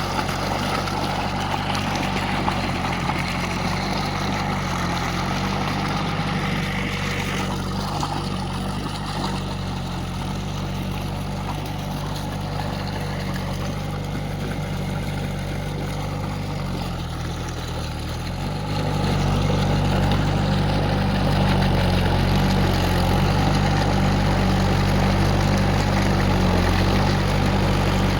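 A steady, low engine hum that shifts slightly in pitch and grows louder about two-thirds of the way through.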